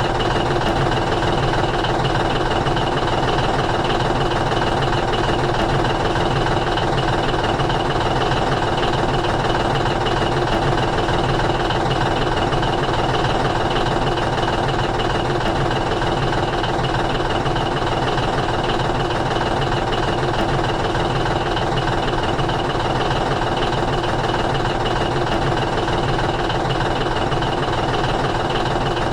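A steady engine sound at idle, running evenly without change in pitch or level.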